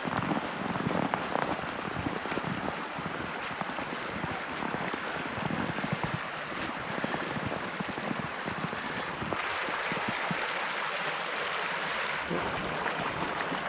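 Mountain stream running, a steady rush of water that grows a little brighter about nine seconds in.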